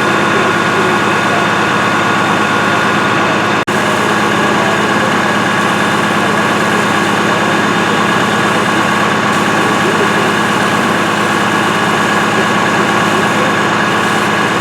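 Heavy engine running steadily at a constant speed, typical of a fire engine idling at the scene.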